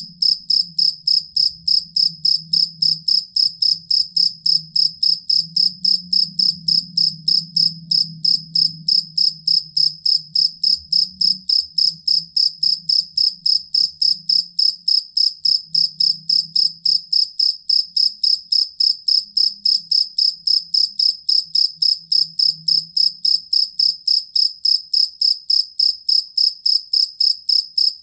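Field cricket chirping steadily in an even, fast rhythm of about three short, high chirps a second.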